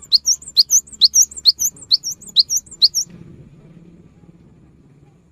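Cinereous tit (gelatik batu) singing a fast run of sharp, high chirping notes, about five a second, which stops about three seconds in.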